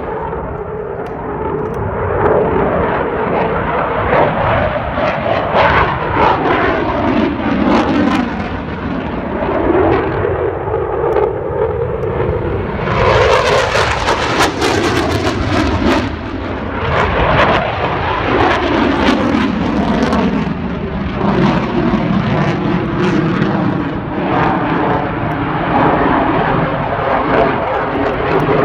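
A Eurofighter Typhoon's twin jet engines, loud throughout as the fighter flies its display. The pitch sweeps slowly up and down as it passes and turns, with the loudest, harshest burst of jet noise about halfway through.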